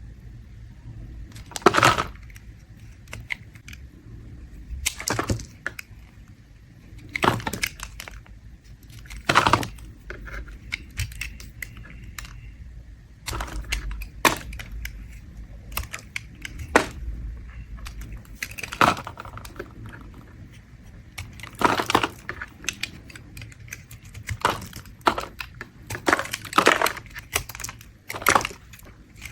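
Bar of mint soap being scraped in short, crisp strokes, one every one to three seconds, with shavings crackling off the surface.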